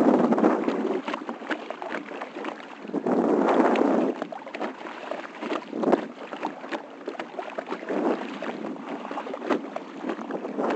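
Water splashing and sloshing around a kayak, coming in surges a few seconds apart, with small knocks in between.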